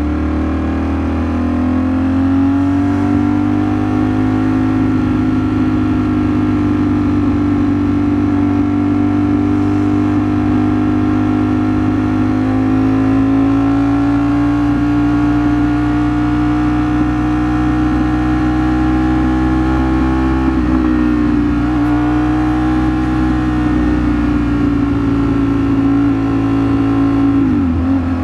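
Ducati Streetfighter V4 S's V4 engine running at steady cruising revs. The revs climb over the first few seconds, then hold, with brief dips about twenty seconds in and again near the end.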